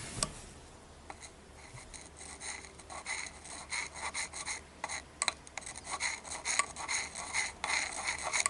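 Repeated hand rubbing or scraping strokes on a part, about two a second, starting about a second in.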